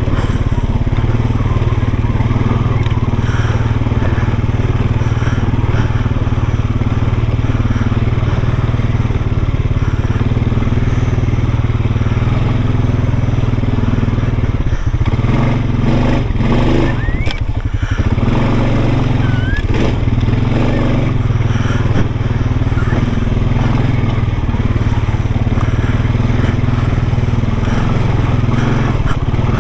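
ATV engine running steadily under way on a rough trail, with tyres crunching over gravel and a few knocks and clatters from the machine and the ground between about 15 and 18 seconds in.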